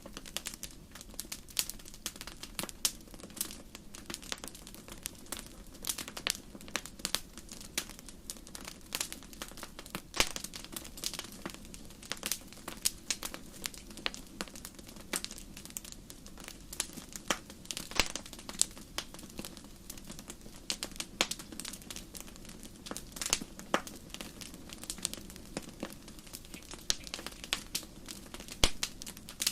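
Campfire burning with dense, irregular crackling and sharp pops over a steady low rush of flame.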